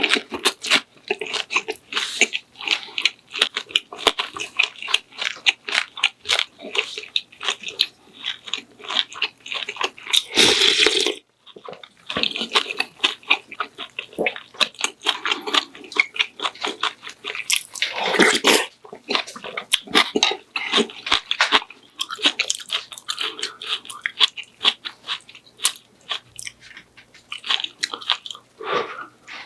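Close-miked eating sounds: a person chewing and biting food in quick, wet, crunchy mouthfuls, with a brief break about eleven seconds in.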